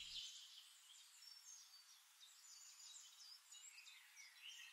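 Near silence, with faint, high, scattered bird chirps.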